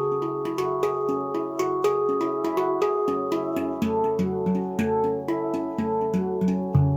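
Luna Eira handpan played by hand: a continuous stream of struck, ringing steel notes, several a second, over a recurring low bass note.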